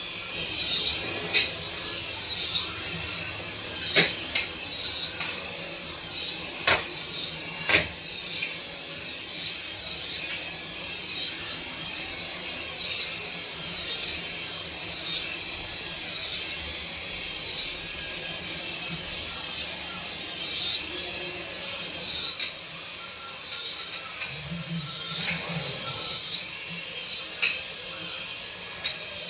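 Small electric motor of a remote-control toy running with a steady high-pitched whine that wavers about once a second. A few sharp clicks come in the first eight seconds.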